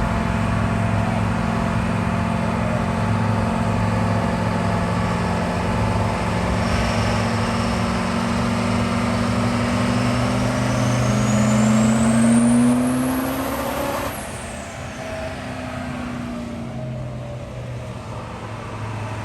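Turbocharged diesel truck engine under load, its pitch climbing with a rising turbo whine that peaks very high, then lets off about fourteen seconds in as the whine falls away.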